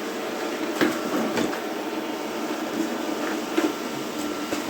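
Robot vacuum running with a steady motor hum, with a few sharp knocks of it bumping into things.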